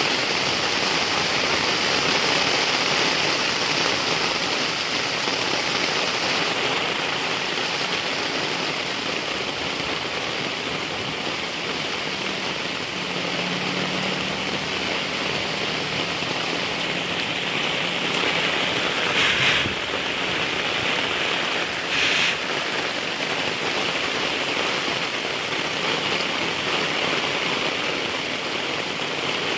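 Heavy rain falling steadily, an even hiss of rain, with two short louder bursts about two-thirds of the way through.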